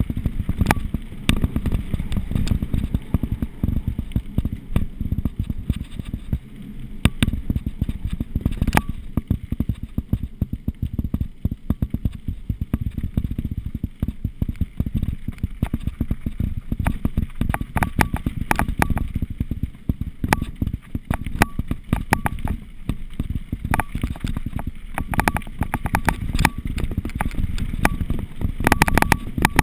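Mountain bike descending a rough trail: constant irregular rattling and clattering of the bike over bumps, over a steady low rumble.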